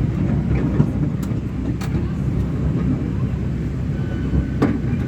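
Park ride-on train running, a steady low rumble with a few sharp clicks.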